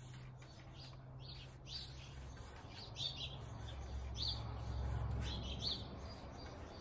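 Small birds chirping in short, scattered calls over a low background rumble that swells for a couple of seconds near the end.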